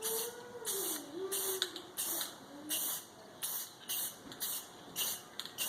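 Aerosol can of Rust-Oleum spray paint hissing in short repeated bursts, about two a second, as small hardware is coated.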